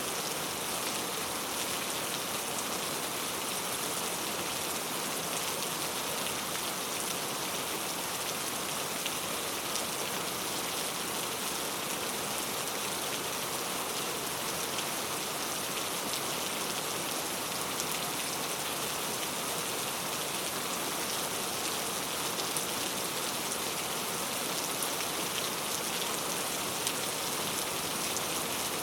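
Heavy rain falling steadily on mango tree leaves, a dense even hiss with fine drop ticks.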